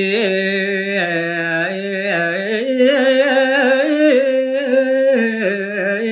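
A solo male voice sings unaccompanied in Balinese tembang style, a pupuh Sinom line drawn out in long, ornamented held notes. The pitch lifts a little through the middle and settles back lower near the end.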